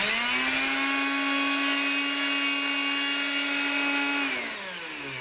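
Electrolux Ergorapido handheld vacuum cleaner's motor and fan, run with the case open, spinning up to a steady, very noisy whine with a rush of air. About four seconds in it is switched off and winds down, its pitch falling.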